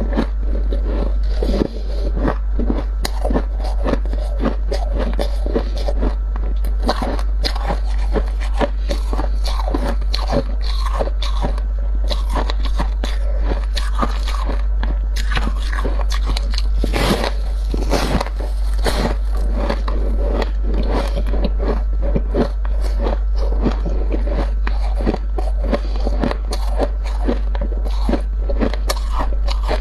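Dry deep-freezer frost crunching and squeaking as it is scraped loose and bitten, in a dense, unbroken run of crisp crackles over a steady low hum.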